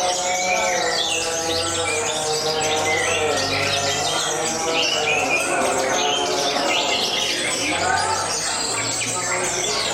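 Several canaries singing at once in fast, overlapping chirps and trills, over a steady background music track.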